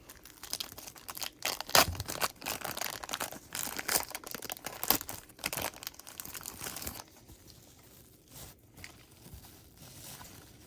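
A trading-card pack wrapper being torn open and crinkled in the hands: a dense run of crackling for about seven seconds, then fainter, sparser handling noise.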